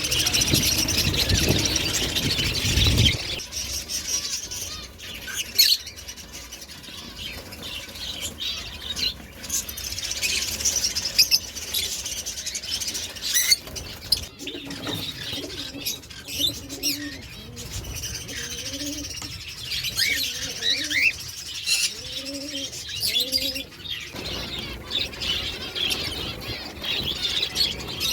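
Many small cage birds chirping and calling together, with wings flapping. Low, repeated cooing calls come in the middle. A louder noise fills the first three seconds and stops suddenly.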